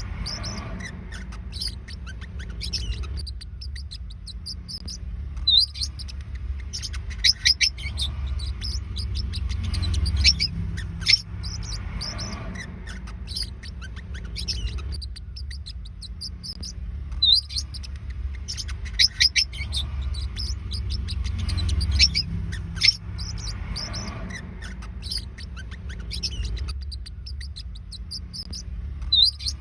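Forpus parrotlets chirping: quick clusters of short, high-pitched chirps every few seconds, over a steady low hum.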